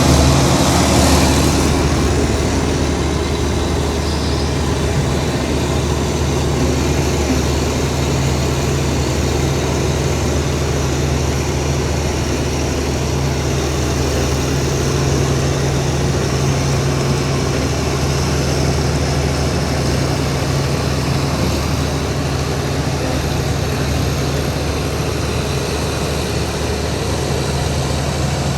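Heavy diesel earthmoving machinery running steadily at a low engine note. There is a louder rush of noise in the first couple of seconds.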